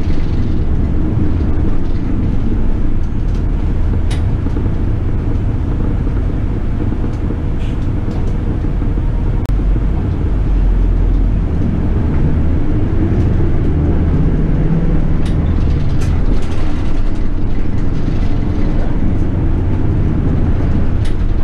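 City bus running in traffic, heard from inside the cabin: a steady low rumble of engine and road noise, with a few faint clicks and rattles.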